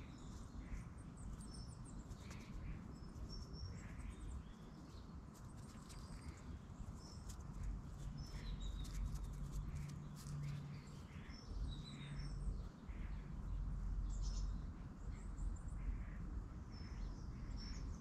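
Wild birds calling with many short, high chirps and whistles, scattered throughout, over a low rumble that grows heavier in the middle.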